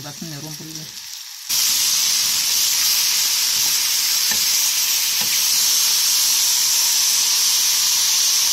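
Sliced mushrooms and onion frying in an aluminium pot: a steady sizzle that jumps suddenly louder about a second and a half in. Two faint knocks come near the middle as they are stirred.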